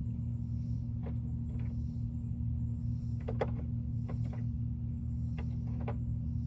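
Sockets and hand tools clicking and clinking now and then as they are tried on a bolt, the loudest pair of clicks about halfway through, over a steady low hum.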